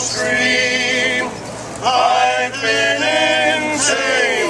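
A group of male shanty singers singing a sea shanty together, holding long sung notes with a short breath gap about a second and a half in.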